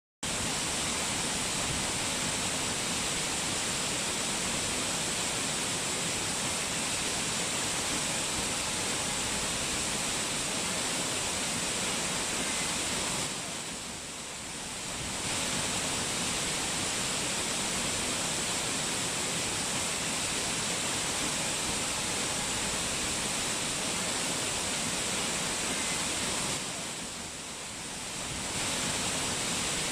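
Steady rush of fast-flowing mountain water or a waterfall, a dense even hiss strongest in the higher range, dipping in level briefly twice.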